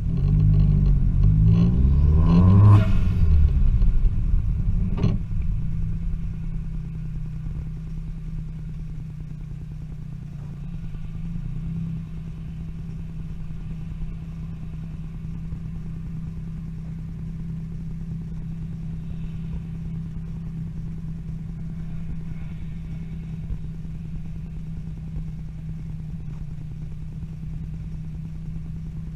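Vauxhall Astra van's remapped Z20LET 2.0-litre turbo four-cylinder engine, heard from inside the cabin: the engine note shifts in pitch for the first few seconds, with two sharp cracks from the exhaust, the pops and bangs added in the remap. It then drops to a steady idle with the van stopped.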